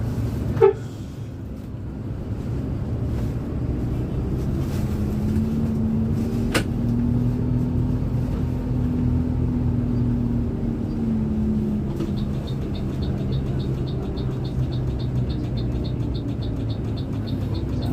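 Bus engine running under way, heard from inside the bus, with a low steady rumble and an engine note that rises and then falls as the bus speeds up and eases off. A short sharp sound comes near the start and a click in the middle, and a fast regular ticking starts about two-thirds of the way through.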